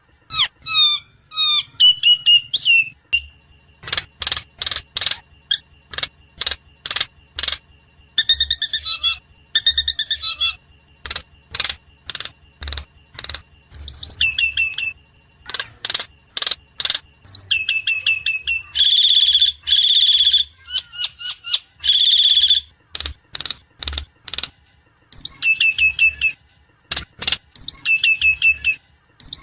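Javan myna (jalak kebo) calling over and over: quick sharp chirps and whistled notes in runs, with a few harsh, noisy calls in the second half. A faint steady high tone runs under the calls for much of the time.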